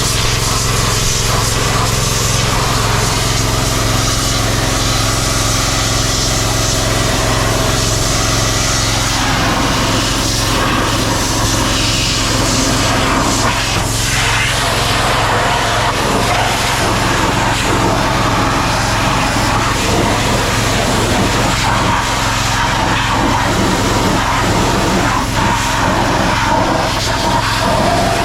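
Small engine running steadily at a constant speed under a broad, continuous hiss.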